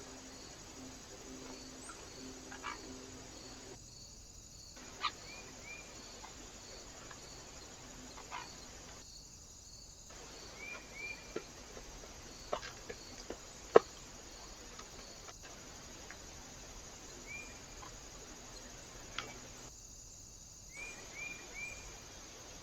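Small birds at a feeder: short chirp notes in groups of two or three, and scattered sharp taps and knocks, the loudest about two-thirds through. Beneath them runs a steady hiss with faint, regular insect-like ticking, cut three times by brief silent gaps.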